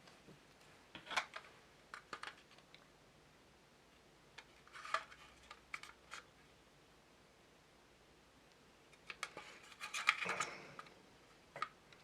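Scattered small clicks and light taps of plastic model-kit parts and tools being handled, in a few short clusters with quiet gaps, the busiest cluster near the end.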